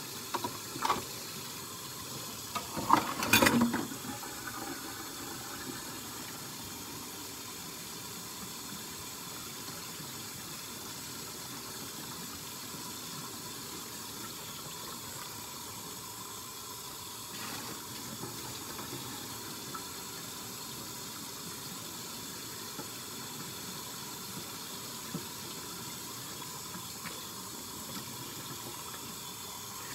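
Kitchen tap running steadily into a sink while dishes are washed, with a few clatters about three seconds in.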